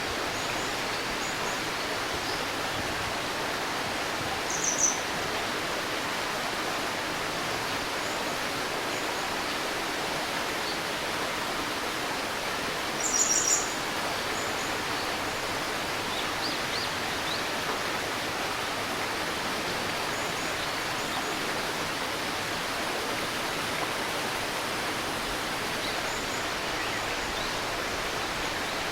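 A stream babbling steadily, with birds calling over it: a short high call about five seconds in, a louder burst of high chirps near the middle, and fainter chirps here and there.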